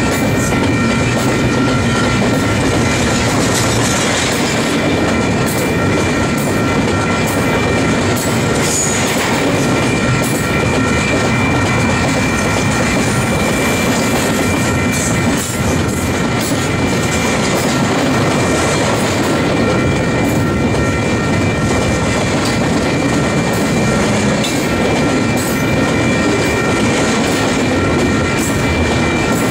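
Double-stack intermodal container train passing close by: a loud, steady rumble of steel wheels on rail, with rail clicks scattered through it and a steady high-pitched ringing over the top.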